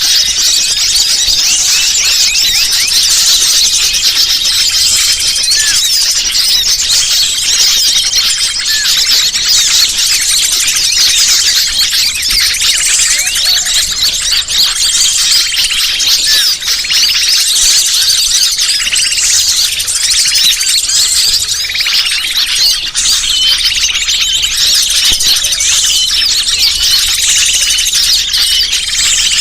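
A bird-lure (pikat) recording: a dense, unbroken chorus of many small birds chirping and twittering at once, high-pitched and busy.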